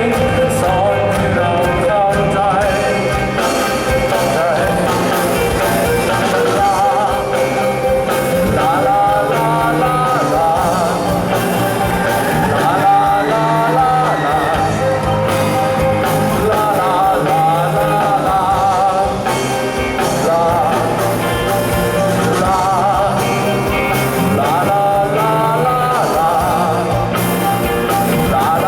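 A band playing a song with a singer's voice over it, steady and loud throughout.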